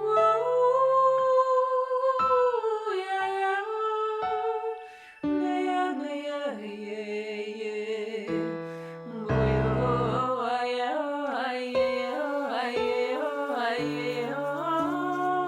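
A woman singing a slow, wordless melody whose pitch glides and wavers, over held instrumental tones with low sustained bass notes.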